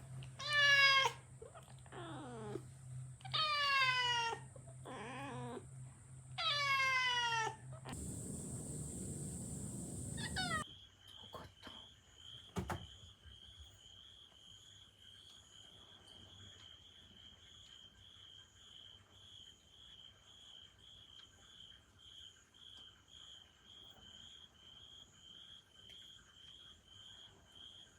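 An angry young cat yowling: three long calls that fall in pitch, with a weaker one between, then a long hiss of about two and a half seconds. After that, only a faint high chirp repeating about twice a second.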